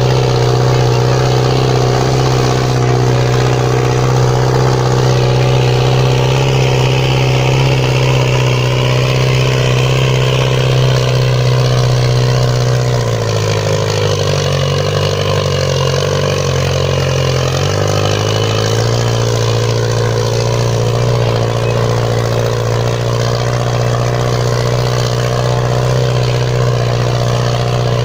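Fiat tractor's diesel engine running steadily under load while pulling a harrow. About halfway through, its note shifts and wavers for a few seconds, then settles back to the same steady pitch.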